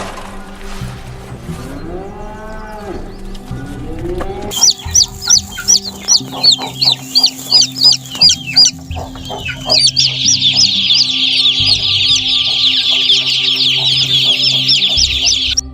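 Chickens calling: after a few lower drawn-out calls, loud sharp peeps come about three a second from around four and a half seconds in. From about ten seconds they become a dense chorus of many chicks peeping at once, which stops just before the end.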